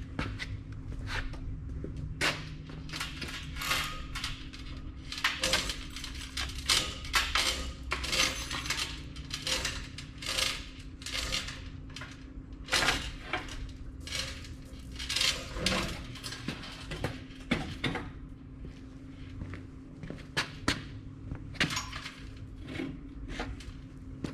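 Irregular clanks and scrapes of steel as a rivet forge and its steel frame base are handled and turned over. A steady low hum runs underneath.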